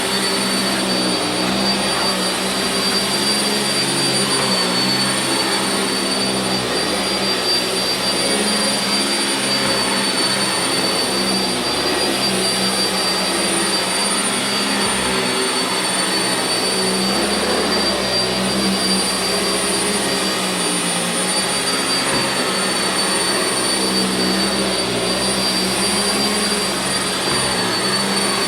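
Sanitaire SC679J upright vacuum cleaner running steadily on carpet: a constant rush of air with a steady high motor whine.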